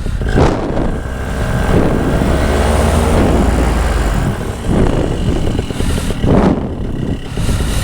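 A motor vehicle passing by, its noise swelling and then fading over a couple of seconds around the middle.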